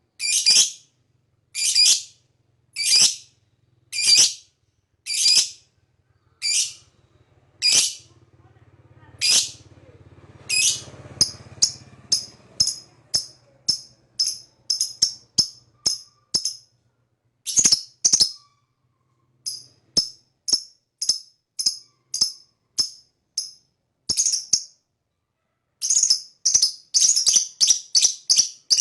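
Lovebird giving short, sharp, high-pitched chirps over and over. They come about one a second at first, then quicken to two or three a second in the second half, with a couple of brief pauses. A faint low hum runs underneath for a few seconds in the middle.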